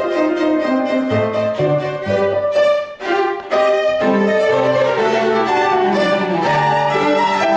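Piano quartet of violin, viola, cello and piano playing classical chamber music, the violin prominent over sustained string notes, with a brief break in the sound about three seconds in.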